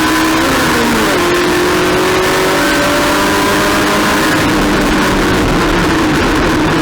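Race car engine running hard under load. Its note dips about a second in, as at a gear change or a lift, then climbs slowly as the car accelerates again.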